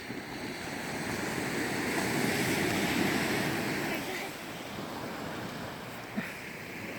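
Sea waves breaking on the shore: the surf swells over the first two or three seconds, then eases off as the wash falls back.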